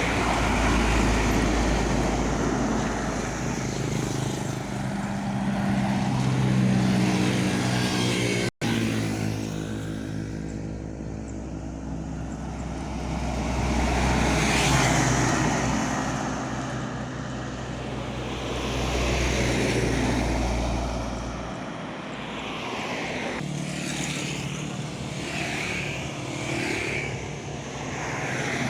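Tanker truck's diesel engine running steadily at road speed, with road and traffic noise that swells and fades several times. The sound cuts out for an instant about a third of the way in, and the deep rumble drops away about three quarters of the way through.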